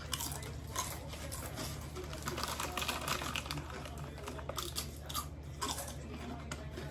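Doritos tortilla chips being crunched and chewed close to the microphone: irregular crisp crunches.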